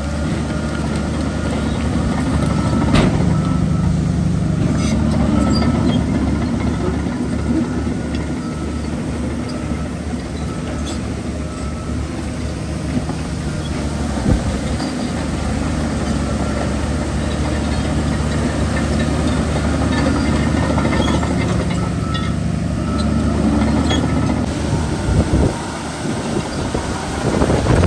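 Heavy diesel engine of earthmoving machinery running steadily under load, its note swelling and easing a little, with a few sharp knocks along the way.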